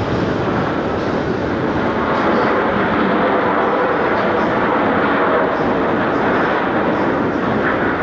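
Jet engine noise from Blue Angels F/A-18 Super Hornets in flight: a loud, steady rushing roar that swells slightly a couple of seconds in.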